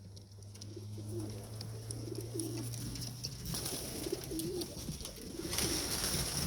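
Pigeons cooing, a run of low warbling coos one after another, with a steady low hum under the first three seconds.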